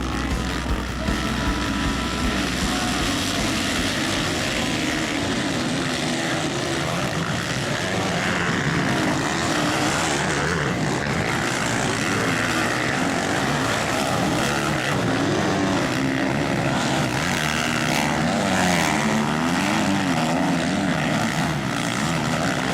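Motocross bike engines racing, revving up and down as the riders work the throttle through the course.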